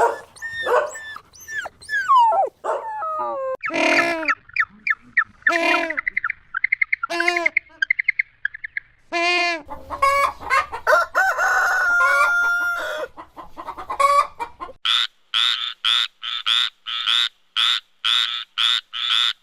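A string of bird calls, chiefly chickens clucking and crowing, changing every few seconds. In the last few seconds it turns into a quick regular series of short calls, about two a second.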